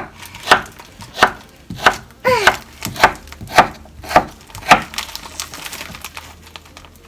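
Kitchen knife chopping potatoes into cubes: a regular run of sharp knocks, a little more than one a second, that stops about five seconds in.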